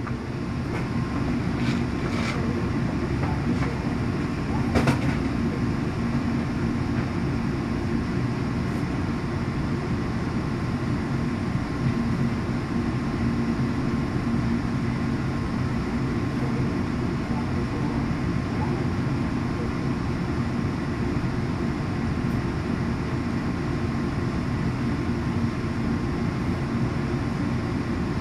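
Steady low rumble and hum of a commuter train heard inside its bilevel passenger coach, with faint steady tones above it. A few light clicks come early on, the sharpest about five seconds in.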